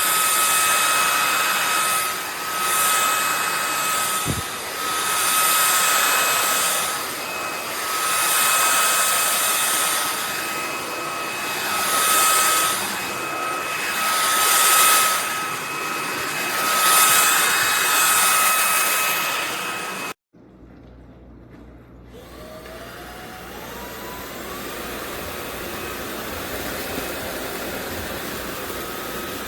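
A frecaer 550W cordless stick vacuum running with a steady high whine, its loudness swelling and fading about every two to three seconds. About 20 seconds in it cuts off abruptly. A quieter, lower steady hum follows, with a short rising whine as it starts.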